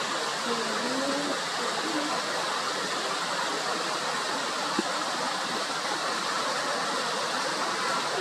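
Steady rushing of a stream over a small waterfall, with one faint click about five seconds in.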